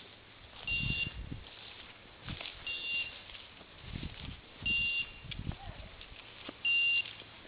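Electronic beeper collar on a hunting dog giving a short high beep about every two seconds, four times, the slow steady rate of a beeper's running mode. Low rustles and thuds of footsteps through brush sound between the beeps.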